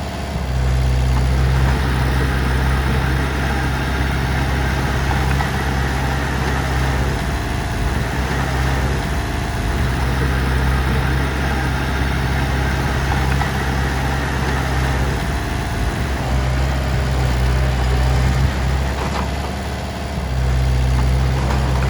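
Heavy diesel engine running steadily near idle, its low note dipping briefly a few times.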